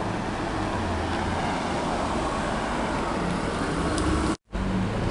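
A sports car's engine running as the car drives along a city street, over steady street-traffic noise. The sound cuts out for an instant near the end.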